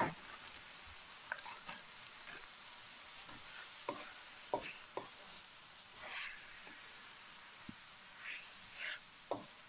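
Noodles, chicken and vegetables sizzling in a hot wok as they are stir-fried, with scattered clicks and scrapes of a utensil against the wok and a few brief swishes.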